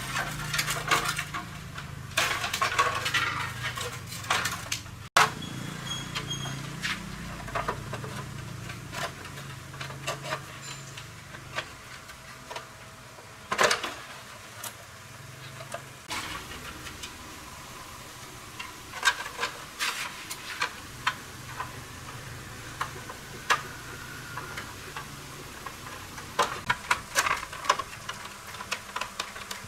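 Metal tools and small metal motorbike parts clinking and tapping, in scattered irregular knocks with a faint low hum underneath.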